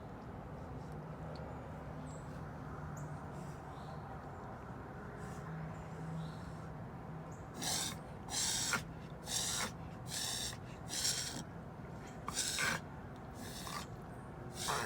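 A corgi making a run of about eight short, sneeze-like bursts of breath through the nose, roughly one a second, starting about halfway in. The owner suspects a sinus problem behind them.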